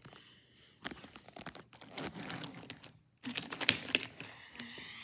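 Small hard toy pieces clicking and clattering as they are handled, in irregular runs of sharp clicks with a louder cluster a little past the middle.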